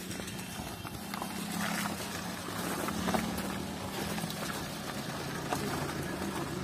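A car engine running at low speed close by, with scattered footsteps on wet, slushy ground.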